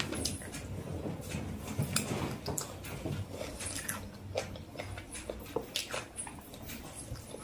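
Chewing and wet mouth sounds of a person eating chicken curry with her fingers. Small irregular clicks and taps come as fingers pull meat off a chicken drumstick bone on the plate.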